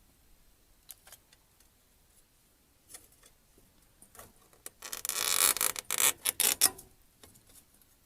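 Light scattered clicks and knocks of metal parts, then about five seconds in a couple of seconds of rapid scraping and rubbing strokes, typical of brushing soot out of a propane refrigerator's flue tube.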